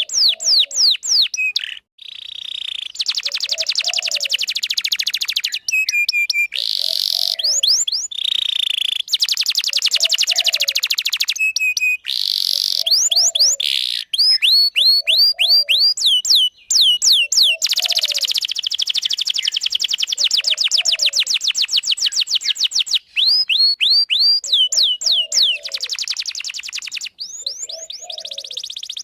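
Domestic canary singing a long, continuous song: fast trills alternating with rapid runs of repeated falling notes, the phrase changing every second or two with only brief breaks.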